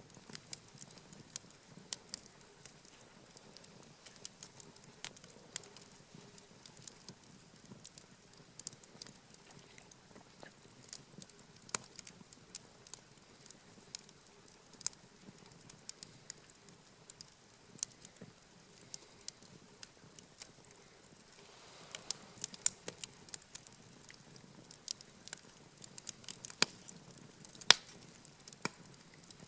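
Wood campfire crackling, with irregular sharp pops and snaps that come thicker and louder in the last third.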